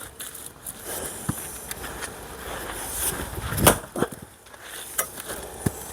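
Axe blows on a thick, tough log that has not yet split: one heavy strike a little over halfway in, with a few lighter knocks around it.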